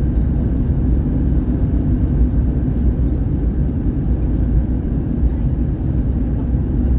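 Steady low rumble of an Airbus A321-111's cabin in flight: the CFM56 engines and the airflow over the fuselage heard from inside the cabin.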